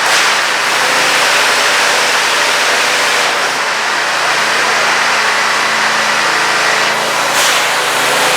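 Hot-water pressure washer rated 3500 PSI at 9 GPM spraying through its gun and wand: a loud, steady hiss of the water jet over the steady hum of the machine's engine, with brief changes in the spray twice.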